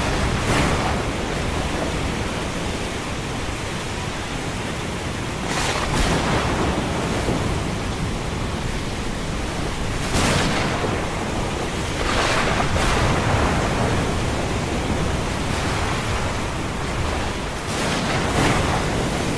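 Ocean surf washing in a steady roar of noise, with a wave breaking and surging every few seconds, the loudest about six, ten and eighteen seconds in.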